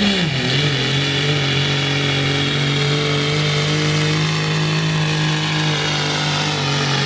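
Turbocharged diesel pickup engine running hard at high, steady revs in a truck pull. Its pitch drops about half a second in, then holds level.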